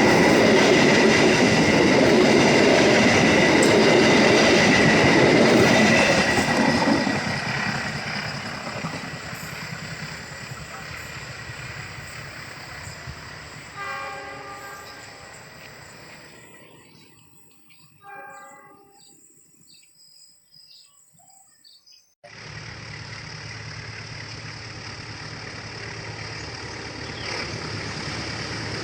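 A train passing close by with rattling wheels on the rails, loud for about six seconds and then fading into the distance, with two short horn blasts as it goes. After a near-silent gap, a steady vehicle engine running starts suddenly near the end.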